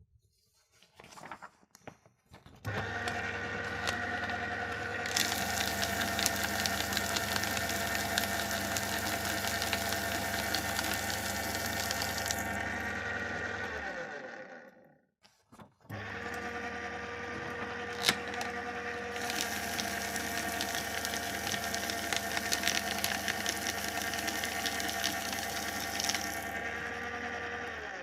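Electric paper shredder running twice. The motor starts a few seconds in with a steady hum and whine, turns louder and hissier for several seconds, then winds down and stops around the middle. It restarts at once, goes through another louder, hissier stretch and stops near the end.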